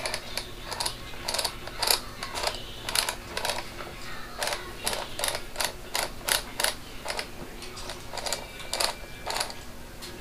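Irregular plastic clicks and knocks, roughly two or three a second with short pauses, from hands working a battery-powered electronic device, its batteries, buttons and casing.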